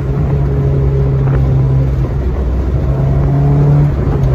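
Honda S2000's four-cylinder engine running steadily at cruise in the open-top roadster, with road and wind rumble underneath. The engine note breaks off briefly about two seconds in, comes back slightly higher, and drops in pitch near the end.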